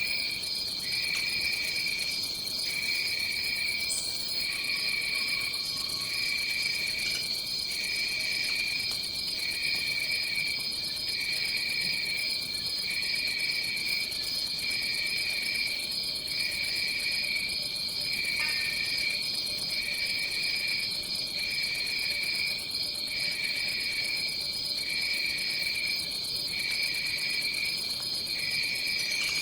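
Tropical rainforest insect chorus: a steady high-pitched insect trill, with a lower chirping call pulsing about once a second.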